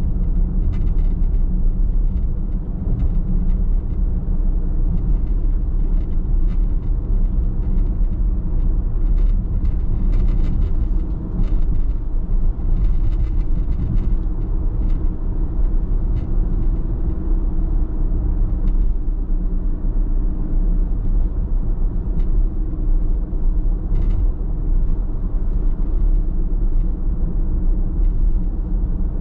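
Car driving along a road: a steady low rumble of tyres and engine, with faint light ticks and a little extra hiss about ten to fourteen seconds in.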